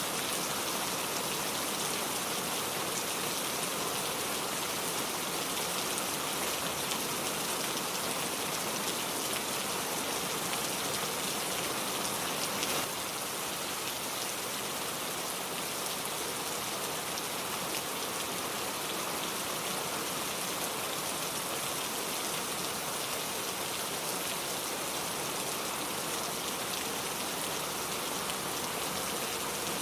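Steady rainfall: an even, dense hiss of rain pattering on surfaces, dipping slightly in level about halfway through.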